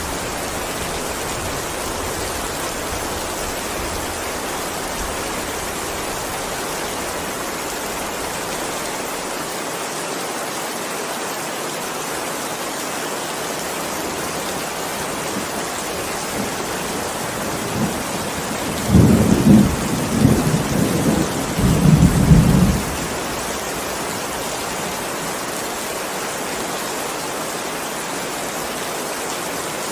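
Heavy rain falling steadily, with a low roll of thunder rumbling from about two-thirds of the way in for several seconds.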